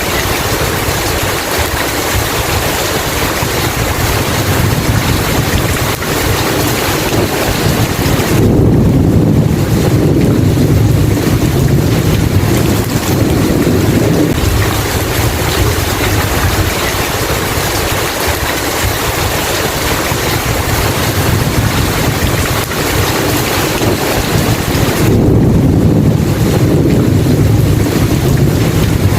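Heavy rain falling steadily, with low rolling thunder swelling up twice: about a third of the way in for several seconds, and again near the end.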